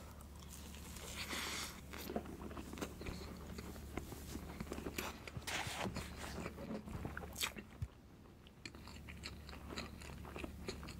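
Close-miked eating sounds of a man biting and chewing a mouthful of layered crepe cake, with many small mouth clicks.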